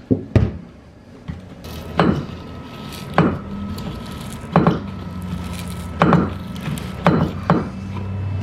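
Hard knocks from a hand tool striking the floor, about seven, roughly a second apart, with a steady low hum underneath, as glued-down rubber flooring is worked loose.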